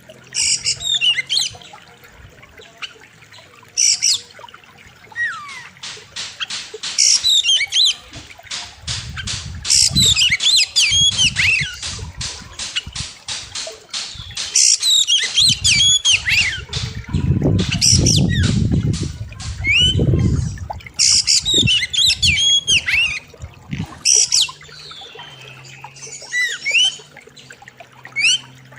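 Oriental magpie-robin (kacer) singing a loud, varied song of sharp whistles, trills and fast harsh chattering notes, with a low rumbling noise through the middle.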